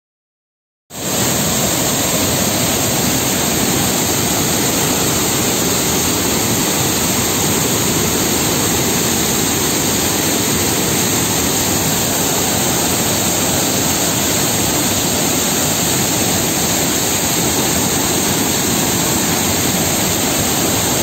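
Waterfall: a steady, loud rush of falling water that cuts in suddenly about a second in.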